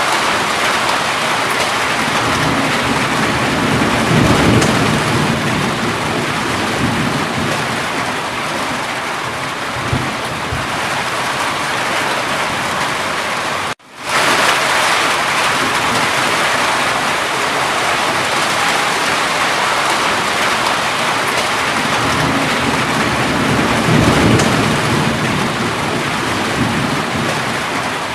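Steady heavy rain, a dense even hiss, with two low rumbles of thunder, about four seconds in and again near the end. About halfway through, the sound cuts out for a split second and comes straight back.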